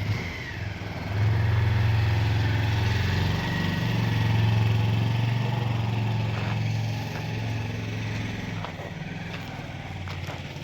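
A vehicle engine running steadily, growing louder about a second in and easing off a little in the second half.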